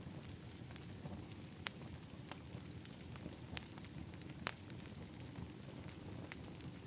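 Wood fire burning in an outdoor fire pit, crackling over a steady low rumble, with a few sharp pops; the loudest pop comes about four and a half seconds in.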